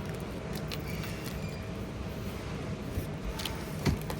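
Supermarket background noise: a steady hum with a few light clicks and one louder knock near the end.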